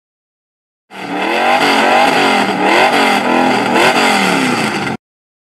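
Race car engine revving, its pitch rising and falling over and over, starting about a second in and cutting off abruptly.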